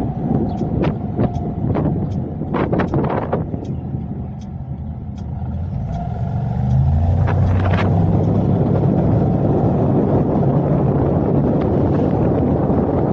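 Car driving on city roads, heard as low road and engine rumble mixed with wind buffeting the camera's microphone, with scattered sharp ticks in the first few seconds. The noise eases about four seconds in and grows louder again from about six seconds in as the car picks up speed.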